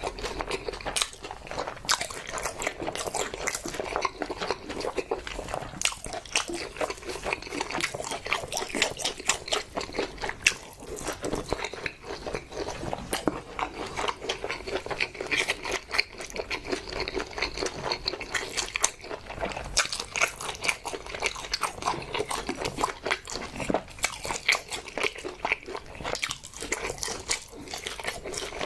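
A person eating close to the microphone: continuous chewing with many small wet mouth clicks and smacks.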